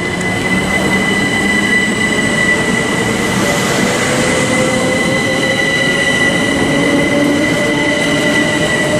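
Southeastern Class 375 Electrostar electric multiple unit pulling out of the station: a steady rumble of wheels on rail under a whine of held tones, with one tone slowly rising in pitch as the train gathers speed.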